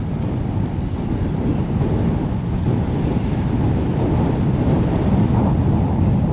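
Strong wind buffeting the microphone, a heavy low rumbling that gusts up and down, with surf breaking on the beach behind it.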